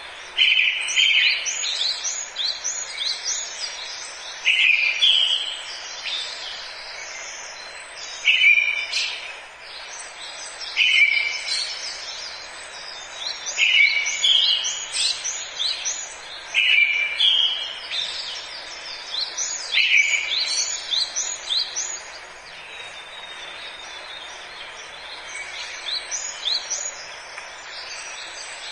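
Forest birdsong: one bird repeats a short call about every three seconds while other birds add many quick, higher chirps, over a steady background hiss. The chorus thins out about three-quarters of the way through.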